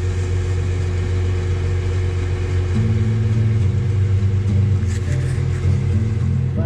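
Tractor engine running steadily, heard from inside the cab, with a low bass line of radio music coming in about three seconds in.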